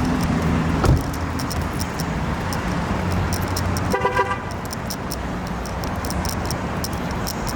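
Dodge Scat Pack's 6.4-litre HEMI V8 running at low speed, with a thump just under a second in and a short car horn toot about four seconds in.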